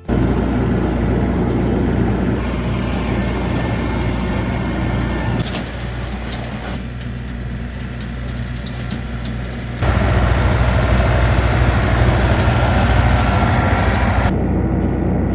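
John Deere diesel tractor engine running steadily while it mows with a brush hog. The tone and level shift abruptly a few times, and it is loudest from about ten seconds in.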